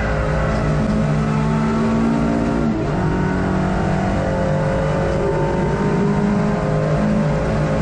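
Hot hatch race car's engine under hard running, heard from inside the car, with a shift in engine pitch about three seconds in.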